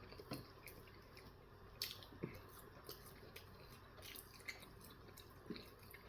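Faint wet chewing of a bagel breakfast sandwich, with scattered soft mouth clicks and smacks.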